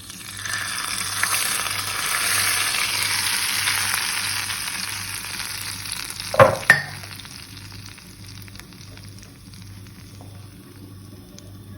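Chili flakes and dried mint sizzling in hot fat in a pan: a loud hiss as they go in, fading over about six seconds. Two sharp knocks follow, and a faint sizzle carries on.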